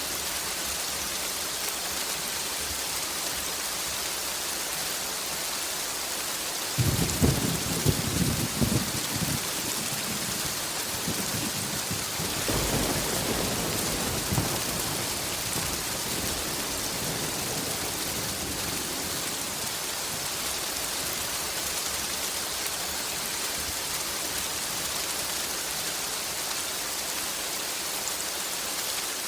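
Steady rain hissing throughout. About a quarter of the way in a thunderclap breaks suddenly with a crackling rumble. A second, lower rolling rumble of thunder swells around the middle and fades.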